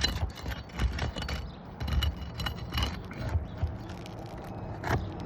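Scraping, clicking and knocking of a hand tool working at a stuck roof shingle that won't come free, with a sharper click near the end.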